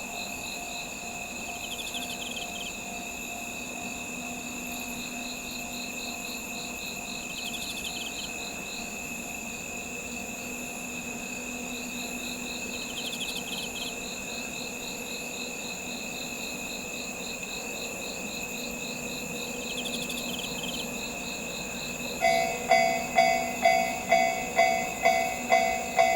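Crickets and other autumn insects trilling steadily, with a layered chorus of high, continuous tones. About 22 seconds in, a railway level-crossing bell starts ringing about twice a second, signalling an approaching train.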